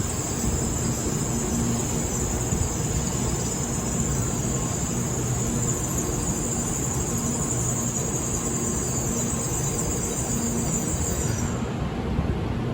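Shinkansen train pulling into a station: a low rumble with a steady high-pitched squeal from the slowing train, which cuts off near the end as it comes to a stop.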